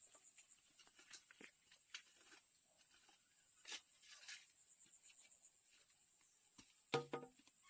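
Quiet background with a steady high hiss and scattered faint ticks, then a brief chicken cluck about seven seconds in.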